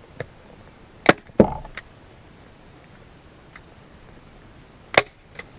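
Staple gun firing staples through a leather seat cover into a plastic seat base: a quick group of sharp snaps about a second in and two more near the end. A cricket chirps steadily in the background, about four chirps a second.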